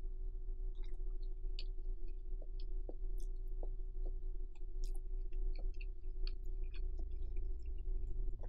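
Close-miked chewing of stir-fried Neoguri instant noodles: many small wet mouth clicks and smacks, with no words. A steady low hum runs underneath.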